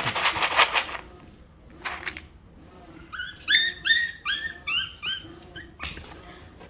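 Chihuahua puppy giving a run of about nine short, high-pitched yelps, starting about three seconds in. Short scratchy bursts of noise come before and after the yelps.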